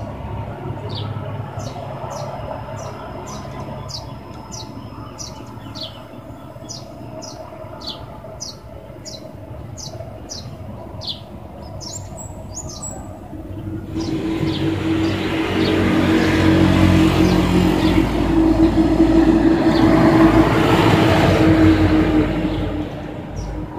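A small bird chirping over and over in short, high notes, about two a second. About fourteen seconds in, a motor vehicle's engine is heard approaching; it grows loud, passes and fades away near the end.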